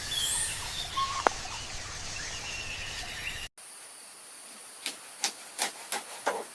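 Bird chirps over outdoor ambience with one sharp click. Then, after a cut, the steady high hiss of oil frying in a pan, with five short strokes about three a second near the end.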